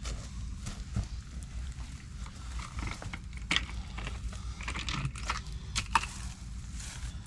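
Scattered clicks, knocks and rustles of equipment being handled, over a steady low rumble, with the sharpest clicks about three and a half and six seconds in.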